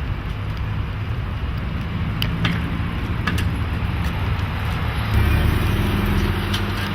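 Road traffic: motor vehicle engines running with tyre noise, one engine's low hum growing louder about five seconds in.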